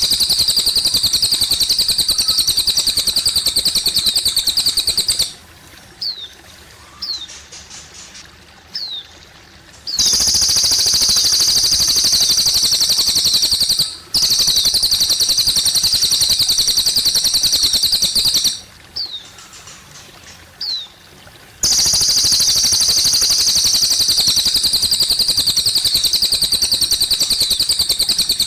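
A cililin songbird singing loud, long, rapid high trills in bouts of several seconds, broken by two pauses in which only a few short downward-slurred chirps are heard. Faint trickling water runs underneath.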